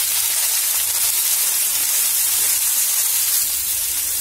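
Chopped tomato and sliced onions sizzling in hot mustard oil in a frying pan, a steady even hiss: tomatoes just added to onions that are frying to a light pink.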